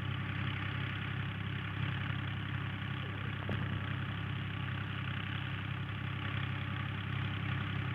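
Tractor engine running steadily at a constant speed, driving a tubewell water pump.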